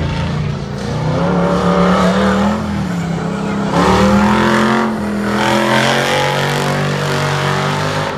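Engine of an off-road competition vehicle running hard through a dirt obstacle course, its pitch climbing in several separate pulls as it accelerates.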